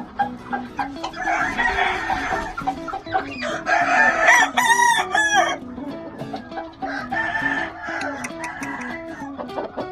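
Gamefowl rooster crowing, with the loudest crow about halfway through and other clucking around it, over background guitar music.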